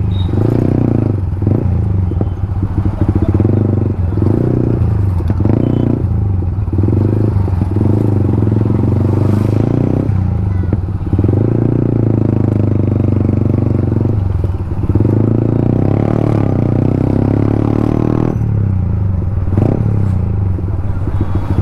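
Yamaha MT-15's single-cylinder engine through an aftermarket Akrapovic exhaust, running as the bike is ridden, with brief dips in its note every second or few as the throttle is eased off and opened again.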